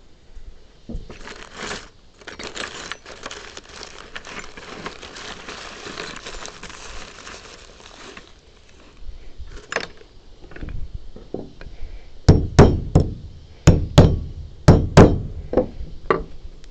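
Hammer striking wooden framing timber: a few lighter knocks, then about nine hard blows in quick pairs near the end. Before them, several seconds of dense scraping and rustling from the wood being worked.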